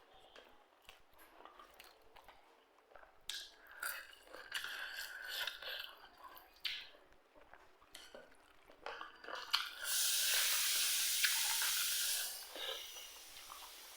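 Close-up eating sounds: chewing and crunching bites of dry beef and greens, with scattered clicks and crackles. About ten seconds in, a loud steady hiss lasts a little over two seconds.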